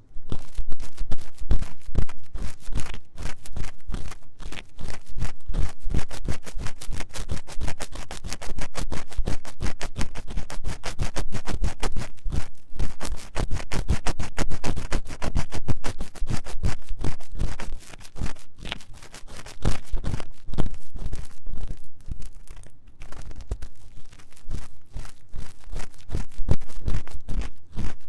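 Ear-cleaning tool scratching fast and vigorously inside the silicone ear of a 3Dio binaural microphone, many rapid scrapes a second, starting abruptly.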